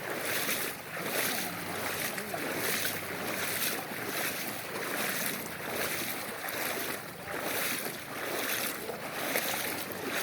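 Floodwater of a rain-swollen creek rushing and splashing across a road, a dense noise that surges and falls about once or twice a second, with some wind on the microphone.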